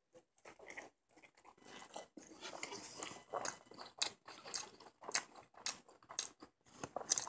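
A person biting into and chewing a Burger King spicy crispy chicken sandwich, its breaded chicken coating giving irregular crunches.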